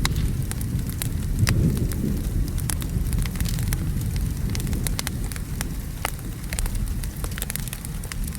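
Steady rain with a low rumble of thunder that is strongest in the first couple of seconds and then slowly dies away, mixed with scattered sharp crackles of a wood fire.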